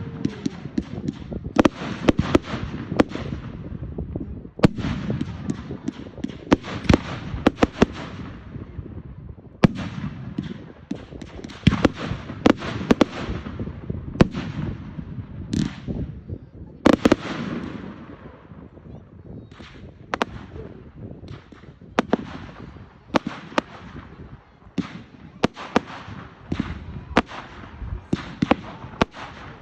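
Fireworks going off continuously: a rapid, irregular stream of sharp bangs and crackles, several a second, over a low rumble.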